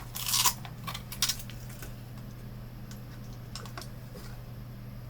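Quick clicks and light clatter in the first second or so, then a couple of faint ticks about three and a half seconds in: small plastic and metal parts of a monitor being handled during disassembly, over a steady low hum.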